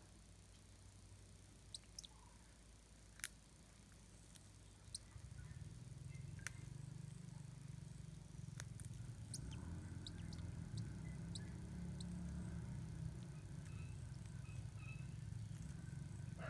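Faint outdoor ambience with scattered sharp clicks and ticks, a low rumble that starts about five seconds in and carries on, and a few faint bird chirps in the second half.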